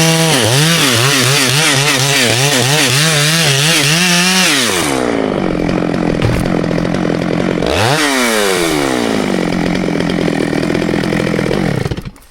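Two-stroke chainsaw at full throttle, its pitch dipping and recovering again and again as it cuts through wood. About four and a half seconds in, it drops to idle. It revs once briefly near eight seconds, then idles again until the sound cuts off abruptly near the end.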